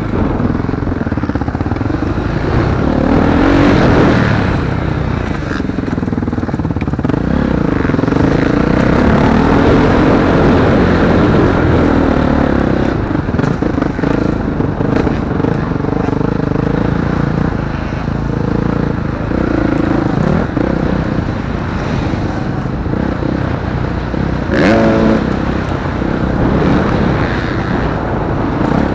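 Motocross bikes racing round the track, their engines revving up and down through the gears. Near the end one bike revs hard close by, its pitch rising sharply.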